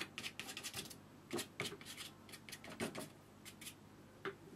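Faint rustling and light taps of paper and card being handled, a few scattered bursts rather than a steady sound.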